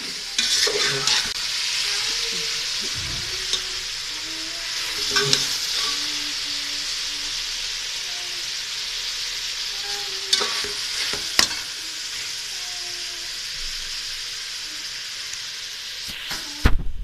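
Chopped vegetables and chicken sizzling as they fry in an aluminium pot, stirred with a metal slotted spatula that scrapes and clicks against the pot a few times. A few loud bumps near the end.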